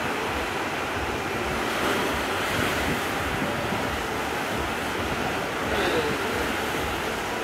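Strong wind blowing over the microphone mixed with the wash of choppy sea waves: a steady rushing noise.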